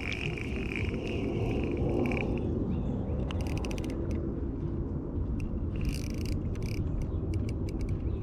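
Steady low wind rumble on the microphone. A high tone runs through the first two seconds, a quick run of clicks comes about three seconds in, and scattered clicks follow near the end.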